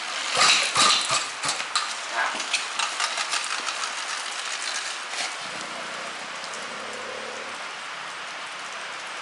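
Steady rain hiss, with a run of irregular knocks and clicks over the first five seconds, loudest about half a second to a second in.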